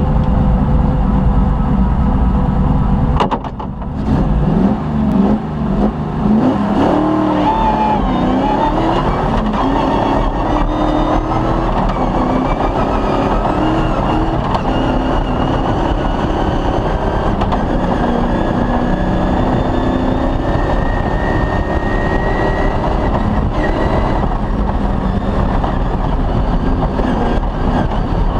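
Off-road rally car's engine running hard on a special stage, its pitch rising and falling as it revs through the gears. About three seconds in there is a brief drop in level with a few sharp clicks.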